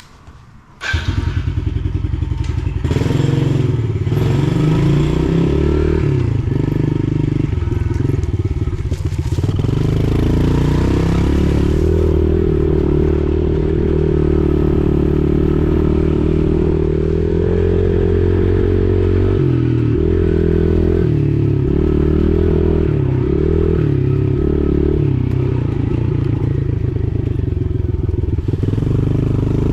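Pit bike engine running as the bike is ridden, its pitch rising and falling unevenly with the throttle. The sound comes in suddenly about a second in.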